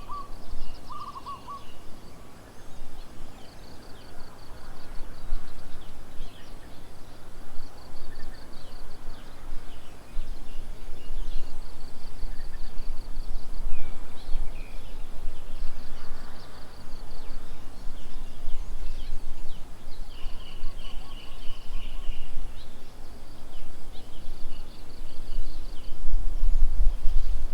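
Wild birds calling: a short, high, rapid trill repeats every few seconds, and a lower pulsed, hooting call is heard about a second in and again around twenty seconds. A steady low rumble runs underneath and gets louder near the end.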